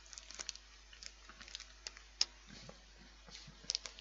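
Faint, irregular crunching and clicking of someone biting and chewing a Cadbury Sandwich Snack chocolate biscuit bar, with a sharper crunch about two seconds in and a few more near the end.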